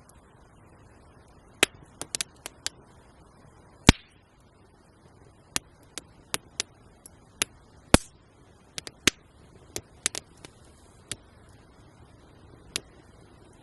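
Wood campfire crackling: sharp pops and snaps at irregular intervals, the two loudest about four and eight seconds in.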